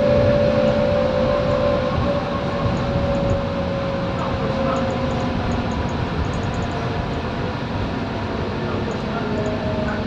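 Scania K230UB single-deck bus under way, its nine-litre five-cylinder diesel and drivetrain running with a strong whine that slowly falls in pitch over the first few seconds, and a lower tone that rises about halfway through.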